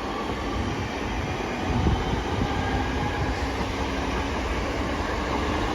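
Two coupled class 323 electric multiple units moving through the station: steady wheel and traction noise with a faint low hum, growing slightly louder about two seconds in.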